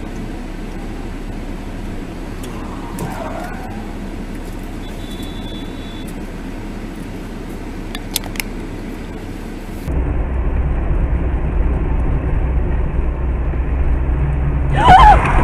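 Steady road and engine noise inside a moving car, with a few faint clicks. About ten seconds in it changes abruptly to a louder, deeper rumble, and a sudden very loud sound starts near the end.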